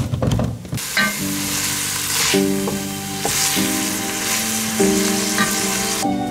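Food sizzling in hot oil in a cooking pot: a steady frying hiss that starts about a second in and cuts off abruptly near the end. It is preceded by a few clicks of a handheld can opener on a tin.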